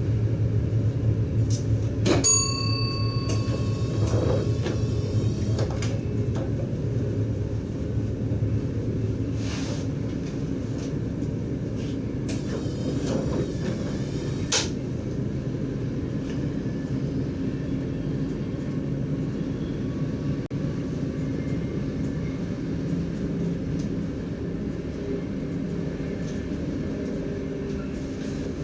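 DDZ double-deck electric train running on rails, heard from the driver's cab: a steady low rumble, with a sharp ding that rings and fades about two seconds in and brief wavering high squeals twice.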